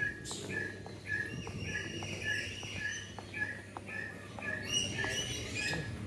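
Birds calling: one bird repeats a short chirp steadily, about two or three times a second, while other birds give higher calls over it about two seconds in and again near the end.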